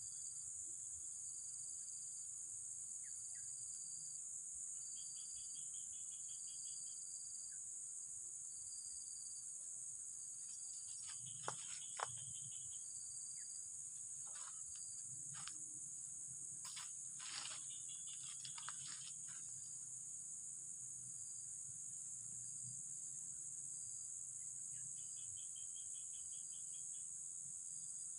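Steady high-pitched drone of insects, with another insect calling in short regular pulses about once a second. A few sharp clicks come about halfway through.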